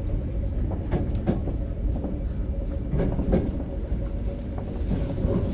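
Running noise heard inside a Toei 5300-series train car: a steady low rumble with a faint steady hum, and two pairs of sharp clacks, about a second and about three seconds in, as the wheels pass over rail joints.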